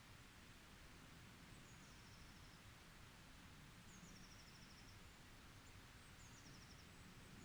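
Very faint forest ambience: a steady hiss with a small bird's thin, high calls, each dropping into a short trill, heard about three times.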